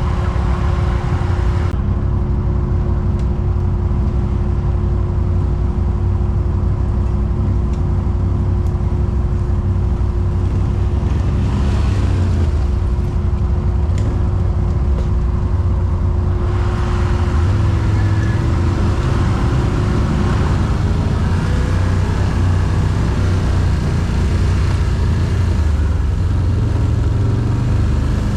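Quad bike (ATV) engine running steadily with a low, even note. A faint steady whine alongside it fades out about two-thirds of the way through.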